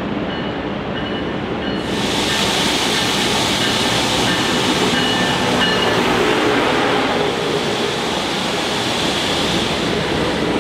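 Passenger train running through the station, a steady rushing noise with faint high tones that grows louder and brighter about two seconds in and then holds.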